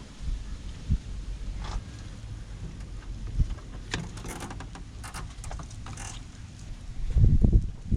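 Scattered clicks and knocks of tools and parts being handled during a van clutch replacement, over a low rumble, with loud low-pitched buffeting from about seven seconds in.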